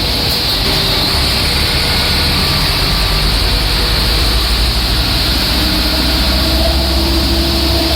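Indonesian passenger train running past in heavy rain: a steady low engine rumble under a constant hiss of rain.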